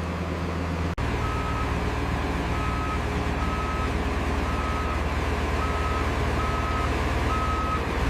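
Heavy construction vehicle's diesel engine running steadily with its reversing alarm beeping, roughly one beep a second; the machine is backing up. The sound cuts out for an instant about a second in, and the beeping starts right after.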